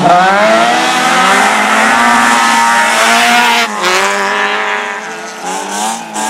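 Racing car engine running hard at high revs, close by. The pitch dips briefly a little before four seconds in, then the sound slowly fades.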